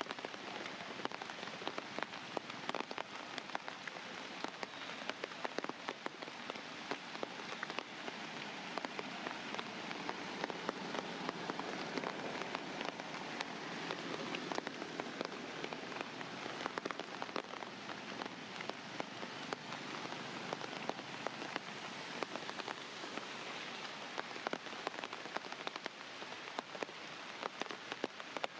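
Steady rain falling, with many separate drops ticking sharply on a surface.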